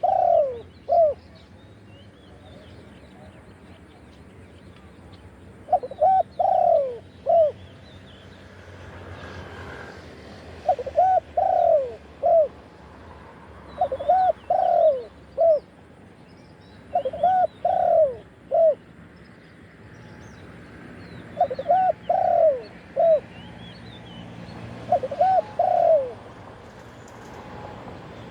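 Spotted dove cooing its song, a short phrase of a few notes with a falling last note, repeated seven times every three to five seconds. Faint chirps of small birds behind it.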